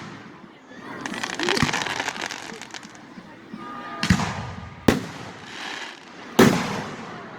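Aerial fireworks: a spell of dense crackling, then three sharp booms about four, five and six and a half seconds in.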